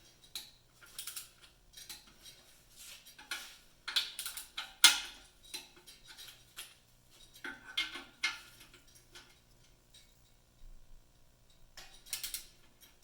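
Metal hand tools, sockets and a torque wrench, clinking and clicking against each other and the metal in irregular knocks, the loudest about five seconds in.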